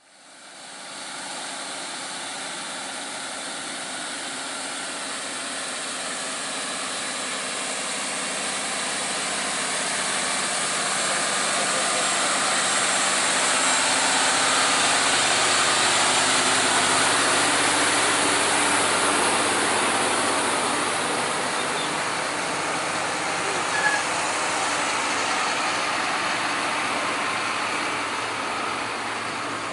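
Heavy truck engine running, with a strong rushing noise over it; it swells over the first fifteen seconds or so, then eases slightly. A single short click about 24 seconds in.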